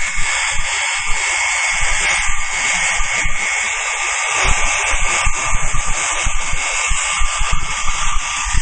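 Welding stress relief machine's treatment head running steadily on a weld: a continuous buzzing hiss with faint steady tones, and irregular low bumps underneath.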